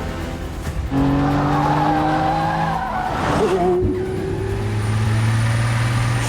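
Car engine running hard at high revs with tyres squealing and skidding; it gets louder about a second in, and the squeal drops in pitch a little past halfway.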